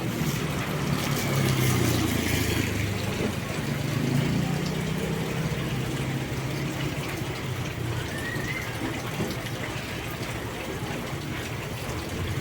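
Fairly heavy rain falling on and around a moving road vehicle, with the vehicle's engine humming low underneath.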